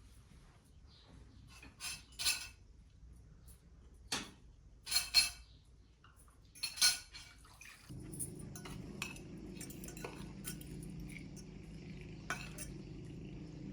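Cutlery clinking against plates and dishes, with several sharp clinks in the first seven seconds. About eight seconds in, a steady low hum starts up under the scattered clinks.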